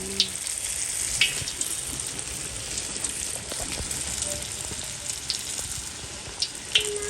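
Puff puff dough deep-frying in hot oil: a steady sizzle with a few sharp crackles.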